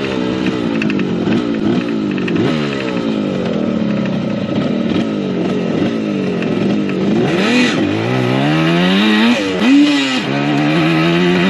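1975 Yamaha RD200 two-stroke twin engine running under throttle, its pitch rising and falling again and again; near the end it climbs, drops sharply about ten seconds in, then climbs again.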